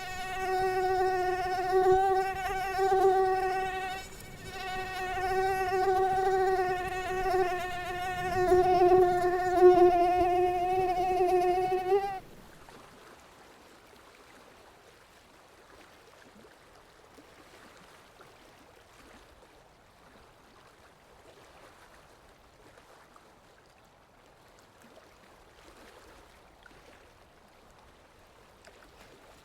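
A mosquito's wingbeat whine: a steady, slightly wavering high hum that dips briefly about four seconds in and cuts off suddenly about twelve seconds in, leaving only faint background noise.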